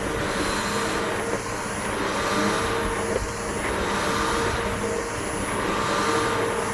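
Bissell BigGreen PowerForce upright vacuum cleaner running over grass: a steady motor whine and rush of air that swells and eases about every two seconds.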